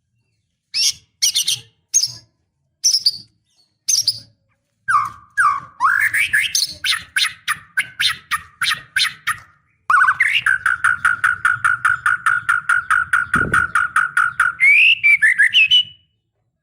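Female white-rumped shama calling: a few sharp separate notes, then a fast, even rattling chatter of about seven notes a second that ends in a few rising notes. It is the hen's call to a male when she is in breeding condition.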